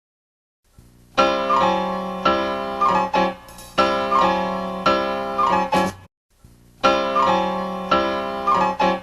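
Piano music: chords struck about once a second. It starts about a second in and breaks off briefly about two-thirds of the way through.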